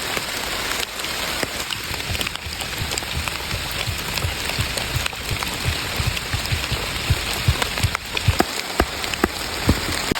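Rain falling steadily in a forest, with many single large drops landing close by as sharp taps, coming more often and louder in the second half.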